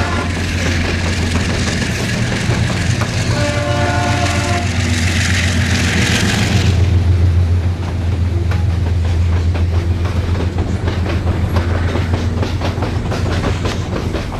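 Freight train with GE C30 diesel-electric locomotives passing below. A heavy diesel engine drone runs throughout, and a locomotive air horn chord sounds twice: one ending just after the start, and one about three and a half seconds in. As a locomotive passes underneath there is a loud rush of noise, followed by the wheels of the wagons clicking over the rail joints.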